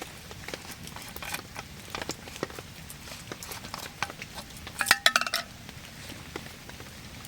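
Metal camp cookware clinking, with scattered light taps and one quick cluster of ringing strikes about five seconds in, amid dripping rain.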